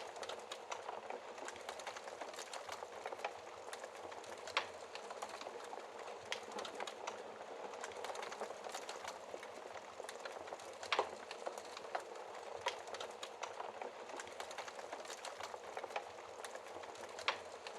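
Wood fire burning in a fireplace behind a glass shield: a steady soft hiss of flames with frequent small crackles and three sharper pops, about five, eleven and seventeen seconds in.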